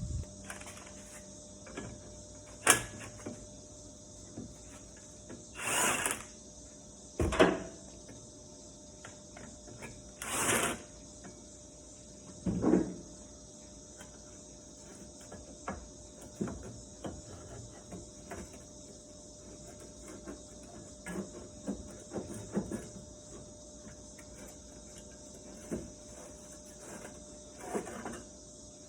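Scattered knocks and a few short scraping noises, from hand work on the car's exhaust, over a steady high-pitched chirring.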